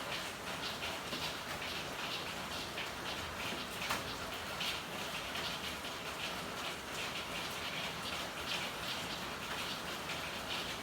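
Steady rain falling, with an uneven patter of heavier drops and splashes and one sharper tap about four seconds in.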